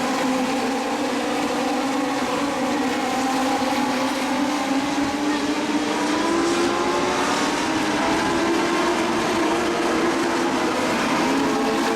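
Legends race cars' engines running hard together, several engine notes overlapping, their pitch climbing slowly as the cars gain speed.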